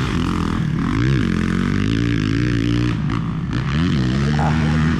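Motocross dirt bike engines on the track revving up and down, the pitch rising and falling again and again.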